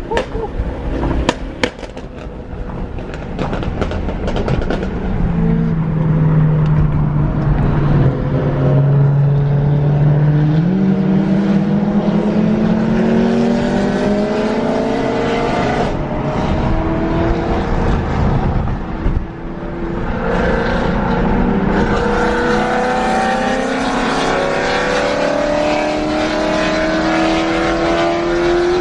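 BMW E93 M3's V8 engine heard from inside the cabin, accelerating in long pulls: its pitch climbs steadily for about ten seconds, drops briefly about two-thirds of the way through, then climbs again. Steady road and wind noise runs beneath it.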